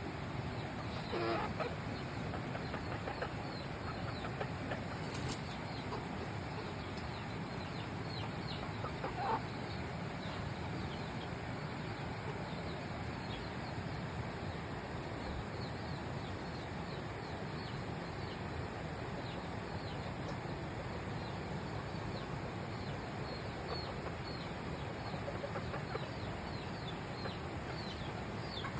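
Chickens calling faintly over a steady hiss: small high peeps repeat throughout, with two short, louder calls, one about a second in and one about nine seconds in.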